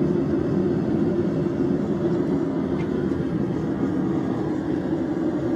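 Home blacksmith's forge running with a steady rushing noise while the steel heats, with no hammer blows.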